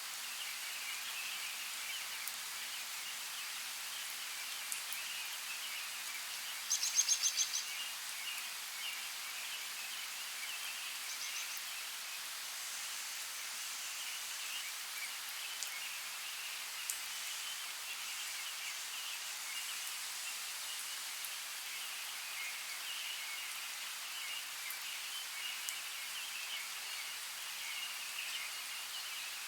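Outdoor nature ambience: a steady hiss with a continuous high, flickering chirr. A bird gives a short, rapid, loud trill about seven seconds in, and a fainter one follows a few seconds later.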